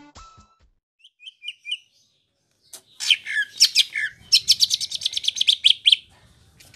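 A cucak ijo (greater green leafbird) singing: a few faint chirps, then about three seconds in loud, high sweeping whistles running into a fast trill of repeated notes, about seven a second, that stops short near the end.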